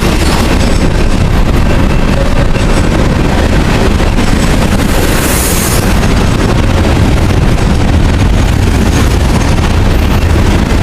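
Freight train rolling past close by, a steady loud rumble with wind buffeting the microphone, and a short hiss about five seconds in.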